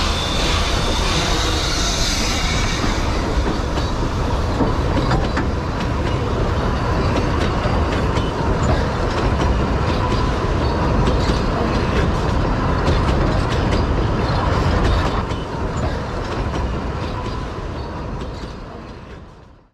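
Puffing Billy narrow-gauge train's carriages rolling past close by: a steady rumble with wheels clicking over the rail joints. It fades out near the end.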